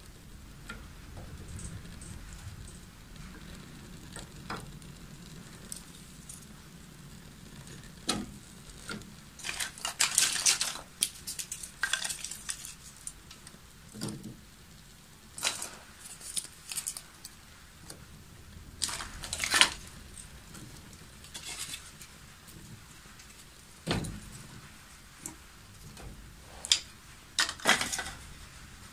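Irregular clatter and clinks of hard objects being handled, coming in scattered bursts with quiet gaps between them.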